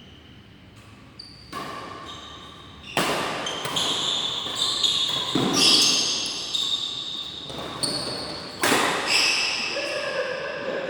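Badminton play echoing in a large hall: shoes squeaking on the court floor, with sudden loud hits about three and nine seconds in.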